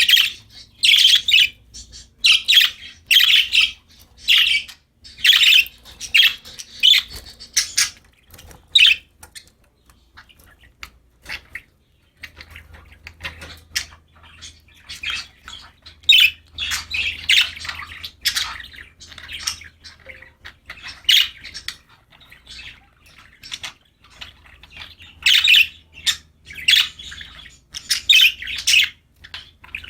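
Budgerigars chirping and squawking in rapid bursts of short, high calls, with a lull of a few seconds partway through.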